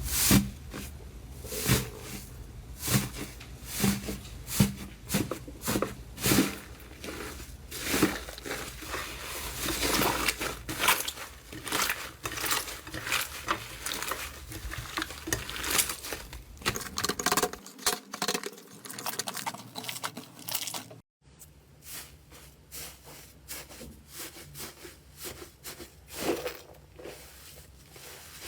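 Slime being squeezed, poked and stretched by hand: a run of wet crackles, squelches and small pops, evenly paced at first, about one every seven tenths of a second. A brief silence about three quarters of the way through, then softer crackling.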